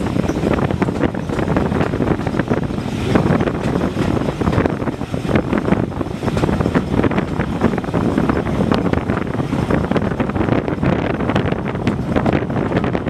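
Wind buffeting the microphone out of the open window of a moving passenger train, over the steady running noise of the coaches on the track, scattered with frequent small clicks and knocks.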